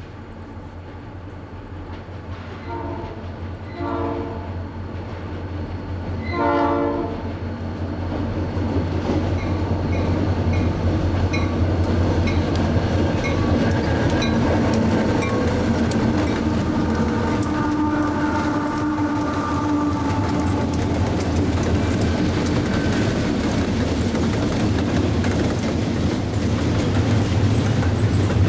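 A diesel freight train led by Canadian Pacific EMD SD40-2 locomotives sounds three horn blasts while approaching. It then passes close by with the deep, steady running of the diesels, followed by double-stack intermodal well cars whose wheels clickety-clack over the rail joints, growing louder as the train arrives.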